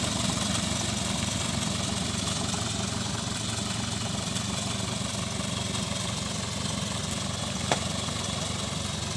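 Daihatsu Taft Hiline truck's diesel engine running steadily as the truck drives, its low hum easing slightly; a single short click about three-quarters of the way through.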